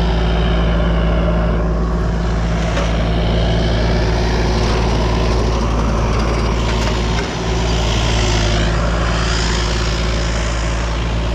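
Engine of a small work machine running steadily, with a short dip about seven seconds in.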